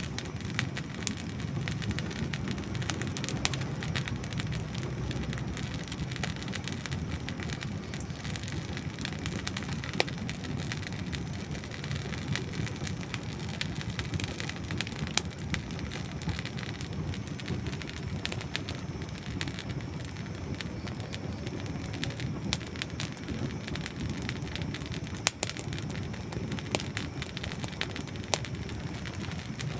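Campfire of dry wood logs burning with a steady low rush of flames and frequent irregular crackles and sharp pops, a few louder snaps standing out, one about ten seconds in and one near the end.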